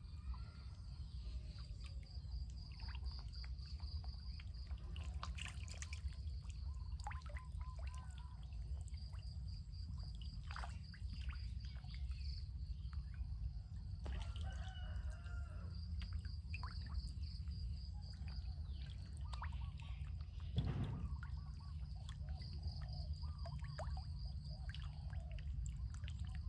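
Outdoor ambience of water trickling, with scattered bird chirps, a pulsing insect-like buzz and a steady low rumble. A single louder thump comes about two-thirds of the way in.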